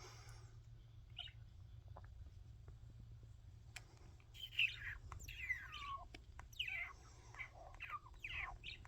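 A young pet bird calling: a run of short chirps that slide down in pitch, starting about four seconds in, over a faint steady low hum.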